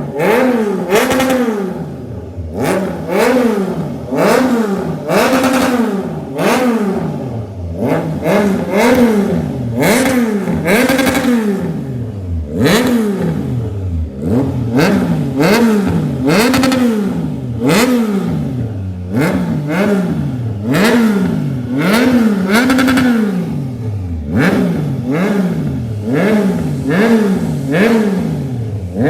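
Triumph Trident 660's three-cylinder engine, breathing through a full aftermarket exhaust system, being revved at a standstill in repeated throttle blips, about one a second. On each blip the pitch climbs quickly, then falls back toward idle.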